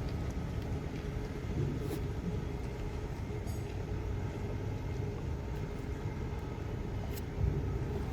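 Steady low rumble with a faint, even machine hum running under it, and a few light clicks.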